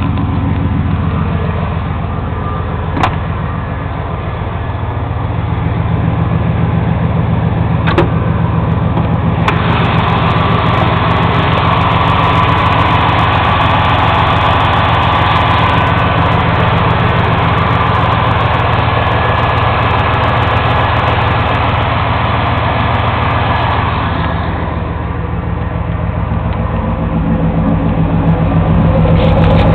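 1993 Chevy Silverado's fuel-injected 5.7-litre 350 V8 idling steadily shortly after a cold start. Two sharp clicks come about three and eight seconds in, and from about ten seconds in to about twenty-four seconds a louder hiss rides over the idle.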